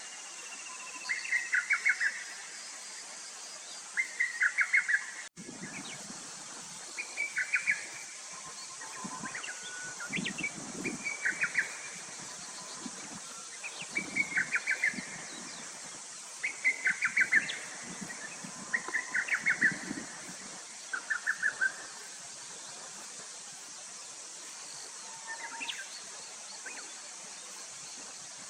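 Lesser cuckoo singing: a short, rapid phrase of five or six staccato notes, repeated every two to three seconds, about ten times. The phrases stop with several seconds to go, leaving a steady high hiss.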